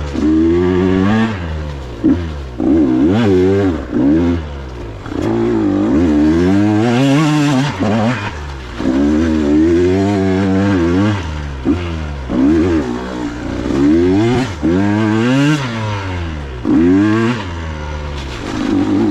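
Single-cylinder two-stroke engine of a KTM 125 XC dirt bike revving up and down over and over, about a dozen bursts of throttle with drops back between them.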